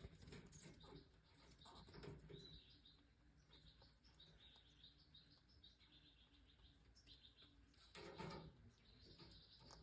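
Faint, short goldfinch chirps, repeated many times, with a few soft rustles or knocks near the start, about two seconds in and about eight seconds in.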